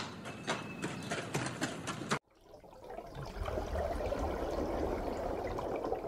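Horses grazing and moving about on grass, giving a run of sharp, irregular clicks and knocks. About two seconds in this cuts off abruptly, and after a brief gap a steady rush of pool water with a low rumble fades in.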